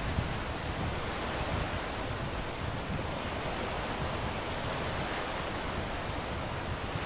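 Steady rushing of churning wake water behind a moving passenger ferry, mixed with wind on the microphone.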